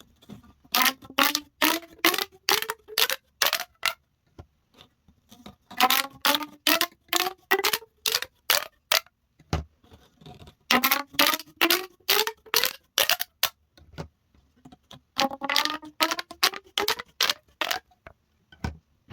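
Corrugated plastic pop tubes being pulled and pushed, their ridges snapping through one after another in quick clicking pops with a hollow ringing tone. The popping comes in four runs, and the pitch rises through each run.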